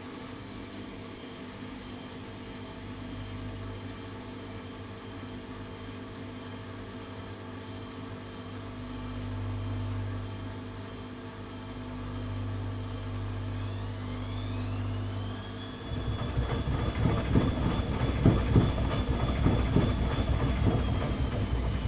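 Atlant 70C1010 washing machine running with a steady motor hum. About two-thirds through, a whine rises in pitch as the drum speeds up into a spin, then the fast-spinning drum gives a louder, uneven rumble.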